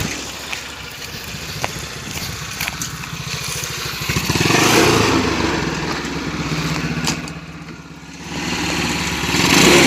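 Small motorcycle engine of a homemade tractor running, revving up about four seconds in, easing off near eight seconds and picking up again near the end.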